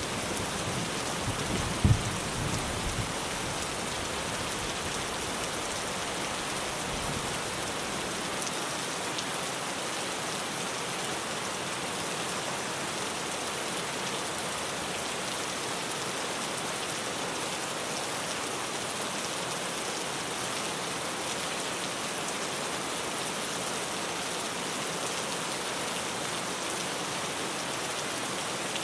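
Heavy rain drumming steadily on a tin roof. A low rumble of thunder dies away over the first few seconds, with a sharp peak about two seconds in.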